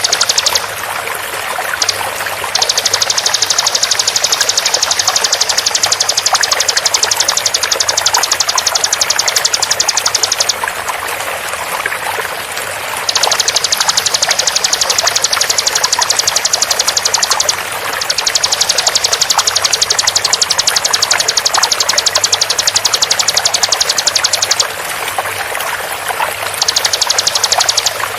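Bar-winged prinia (ciblek) song: long runs of very fast repeated high notes in several bursts of a few seconds each, with short breaks between. A steady sound of flowing water runs underneath.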